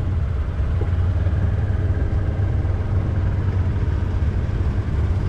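An engine running steadily, a loud low rumble.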